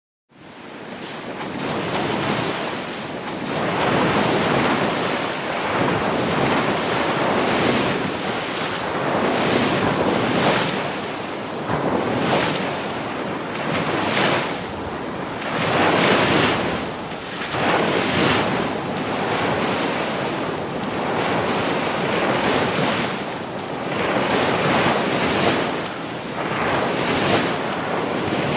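Ocean surf: waves breaking and washing in a continuous rush that swells and eases every couple of seconds. It fades in from silence over the first two seconds or so.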